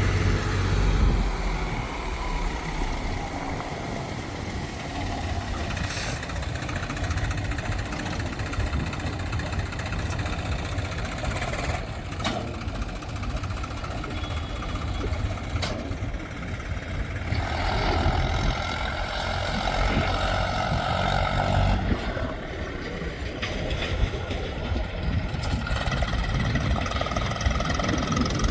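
Heavy diesel engine running steadily during soil loading with a JCB backhoe and a tractor, with a few sharp knocks. A louder, higher note rises for about four seconds some two-thirds of the way through.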